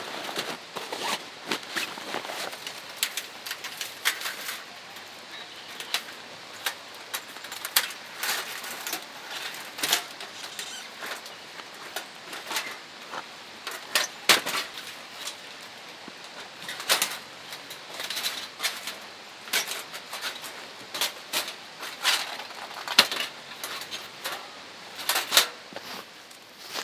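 Irregular sharp clicks and light knocks, several a second, some louder than others, over a faint steady background hiss.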